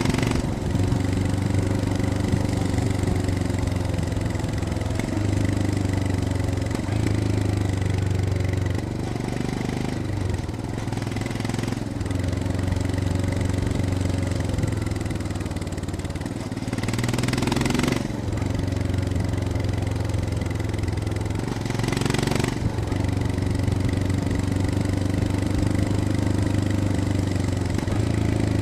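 Royal Enfield Scram 411's air-cooled single-cylinder engine running at low revs on a downhill ride, its note stepping up and down in pitch several times. Two brief rushes of noise sweep over it in the second half.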